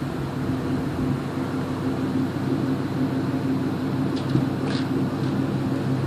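1999 Ford Mustang GT's 4.6-litre V8 idling steadily through a muffler-delete exhaust, straight pipes with the catalytic converters kept; a deep, even idle that is not super loud.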